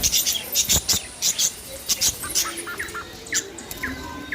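Parrots calling: a quick run of short, high-pitched chirps, then a few brief rising calls in the second half.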